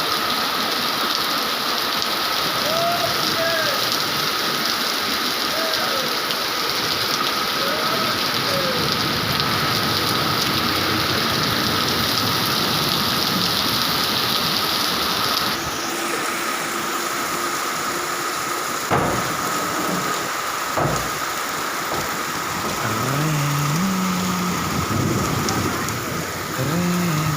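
Steady heavy rain, an even hiss that eases slightly about halfway through, with two sharp knocks in the second half.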